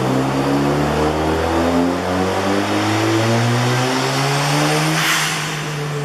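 A car engine revving, its pitch climbing steadily for about five seconds. About five seconds in there is a short hiss and the revs fall away.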